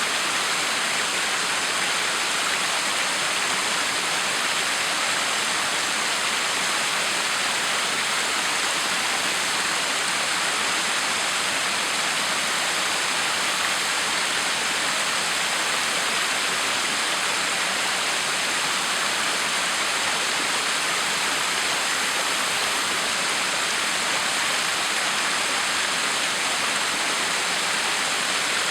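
Backyard waterfall: a steady, unbroken rush of falling and splashing water, bright and hissy with little low rumble.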